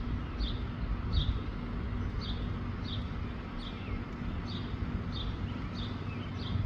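A bird repeating a short, high chirp about once every three-quarters of a second, over a steady low rumble of wind on the microphone.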